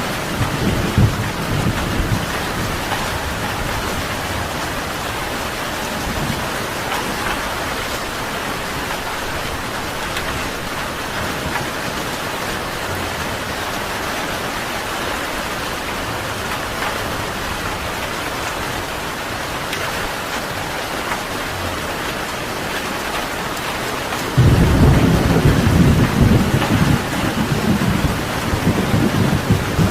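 Steady rain falling, with a low rumble of thunder dying away in the first second and a louder roll of thunder breaking in suddenly about five seconds before the end.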